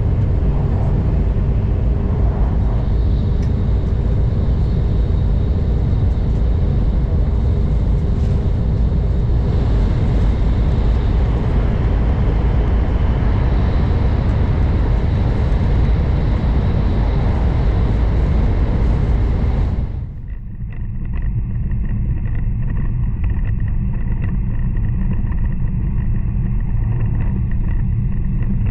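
Steady low rumble of an N700 Series Shinkansen running at speed, heard inside the passenger cabin. About two-thirds of the way through, the sound turns suddenly duller and dips briefly in level before settling back.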